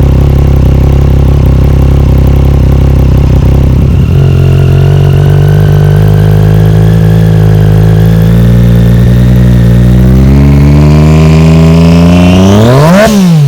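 Triumph Daytona inline-three sportbike engine with an Akrapovic exhaust, idling steadily and then revved. After about four seconds the pitch climbs slowly and evenly, then sweeps up sharply to a peak near the end and drops as the throttle is let go.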